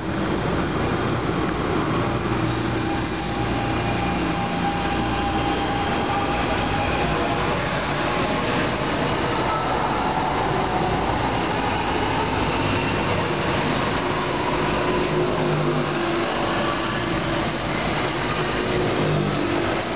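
NJ Transit Arrow III electric multiple-unit train departing and rolling past close by, with a steady rumble of its wheels on the rails and the whine of its electric traction motors.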